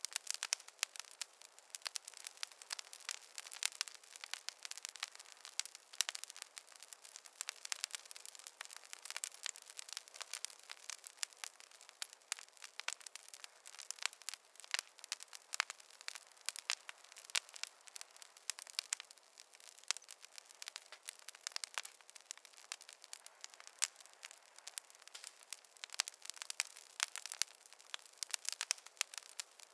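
Wood fire crackling: a constant run of irregular sharp pops and snaps, with no low rumble underneath.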